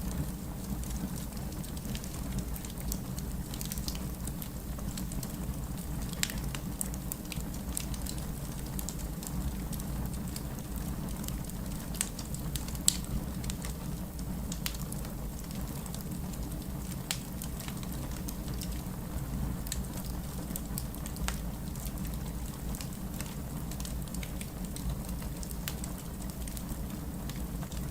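Wood fire crackling with scattered sharp pops over a steady hiss of rain and a low rumble.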